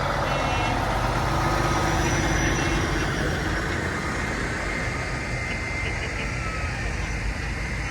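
Diesel truck engines running steadily as parade trucks pass, with a continuous low rumble. Faint voices of onlookers are heard under it.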